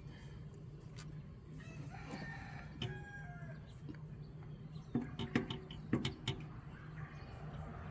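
A rooster crowing once, a drawn-out call of about a second and a half. Later come a few sharp knocks, the clink of tools at work on the alternator bolts.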